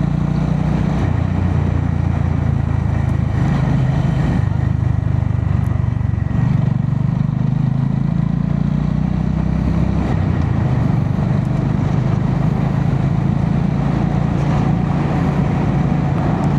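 Honda GB350S single-cylinder motorcycle engine running on the move, with wind and road noise, heard through a microphone inside the rider's helmet. The engine note drops about four and a half seconds in and rises again about two seconds later.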